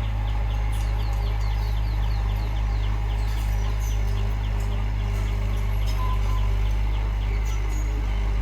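A heavy-equipment diesel engine runs steadily at a constant speed. Over it, a bird gives a rapid series of short, falling chirps, about four a second, that stops about six seconds in.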